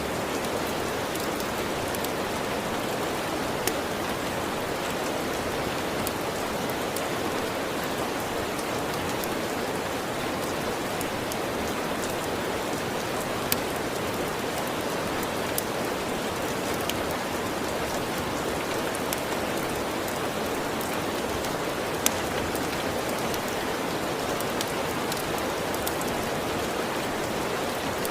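Steady rain falling, an even hiss of drops with a few sharp ticks now and then.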